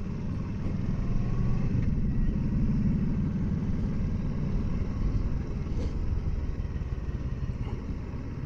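Kawasaki Versys 650 motorcycle's parallel-twin engine running as the bike rides along. It gets a little louder about a second in and eases off toward the end.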